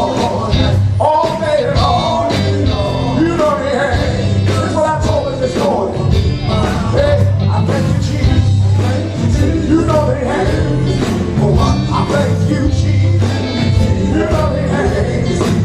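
Live gospel band music: a voice singing over bass and a steady drum beat.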